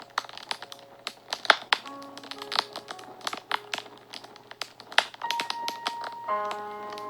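Fire crackling and popping in irregular sharp snaps, the loudest about one and a half seconds and five seconds in, over soft background music of slow held notes.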